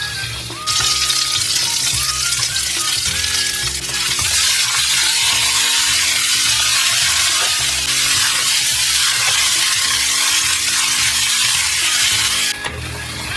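Food sizzling loudly in hot oil in a frying pan. The sizzle starts suddenly about a second in and cuts off abruptly near the end, with light background music underneath.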